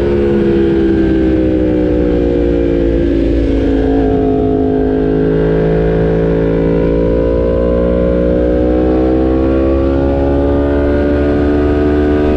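Yamaha R1 sportbike's inline-four engine running at road speed, its pitch sagging gradually through the middle and climbing back toward the end, over a low wind rumble.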